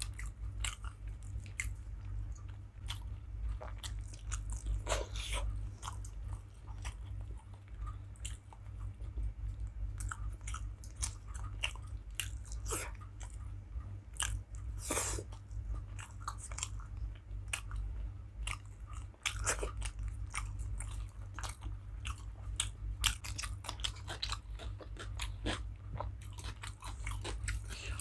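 Close-miked eating: chewing and crunching with many short wet clicks and smacks at an irregular pace, over a steady low hum.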